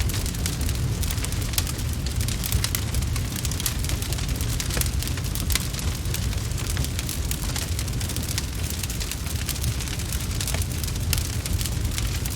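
Wood fire crackling: a dense run of irregular sharp pops and snaps over a steady low rumble.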